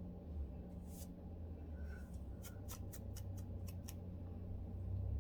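Fine-toothed lice comb scratching a flaky, dandruff-covered scalp: a faint stroke about a second in, then a quick run of about eight short scratches in the middle of the stretch, over a low steady hum.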